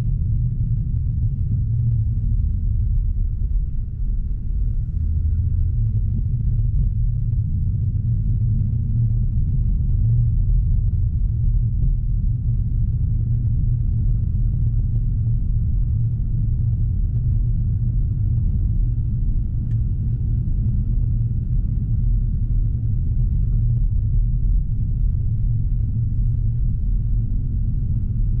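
Steady low road and tyre rumble inside the cabin of a BMW i4 M50, an all-electric car, while it is driving. There is no engine note, only an even drone from the road.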